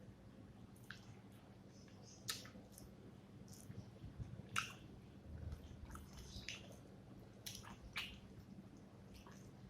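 A person eating rice with fish curry: faint wet chewing and lip smacks, heard as scattered short clicks at irregular intervals over a low steady hum.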